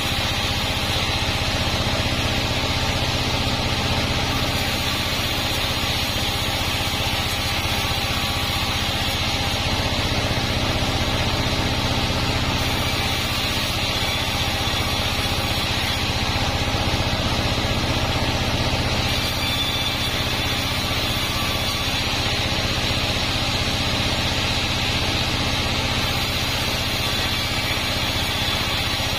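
A 36-inch band sawmill running steadily with a constant machine hum and no breaks.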